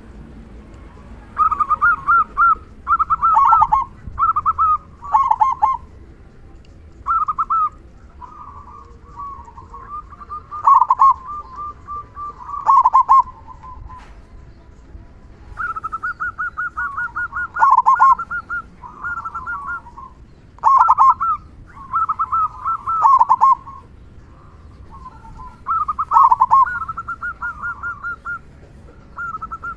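Zebra dove (local perkutut) singing: repeated cooing phrases of quick staccato notes, with the deep, loud 'kung' notes prized in this bird, coming in bursts a second or two apart.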